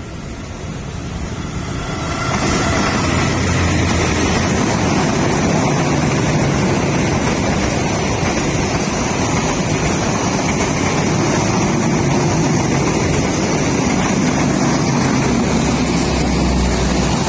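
A train running close by: a loud, steady rumble that builds about two seconds in and holds.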